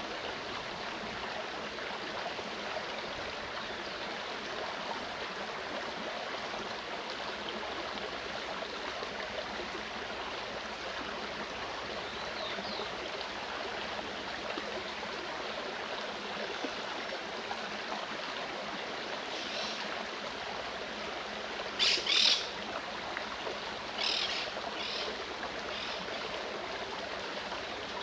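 Clear mountain stream running steadily. Over it a forest bird calls: faintly a couple of times, then a loud double call about two-thirds of the way through, followed by three shorter calls.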